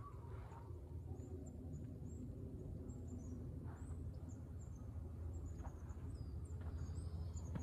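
Small birds chirping, many short high chirps in quick succession, over a low steady rumble, with a few soft footsteps on sandy dirt.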